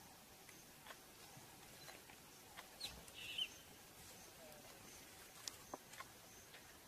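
Faint outdoor ambience with a wild bird calling once about three seconds in: a quick high note followed by a short call. A few faint clicks.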